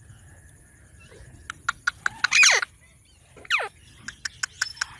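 Indian ringneck parrot calling. It gives a few short, sharp chirps, then two loud squawks that fall in pitch, about a second apart, and near the end a quick run of short chirps.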